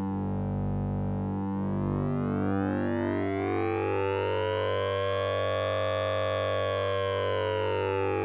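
Synthesizer drone from the Orange Vocoder plug-in's 'Sync'n'Ring' patch. A steady low tone sits under pulsing stacked tones, while the bright upper overtones sweep slowly up, peak past the middle, and sweep back down.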